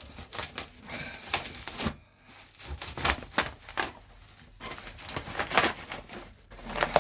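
Packaging being unwrapped by hand: irregular crinkling and rustling, with a short pause about two seconds in.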